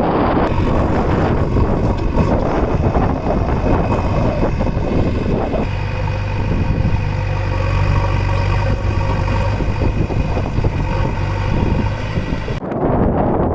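Diesel engine of a JCB backhoe loader running, with wind buffeting the microphone for the first five or six seconds. After that the engine settles into a steady, even tone, and the sound changes abruptly near the end.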